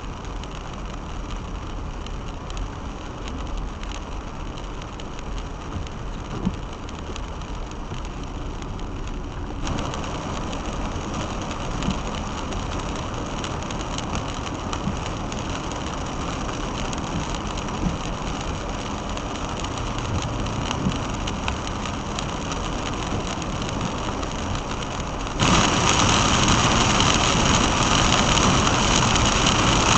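Car driving in rain, the rain on the body and tyre noise blending into a steady rush, heard from inside the cabin; it turns suddenly louder near the end.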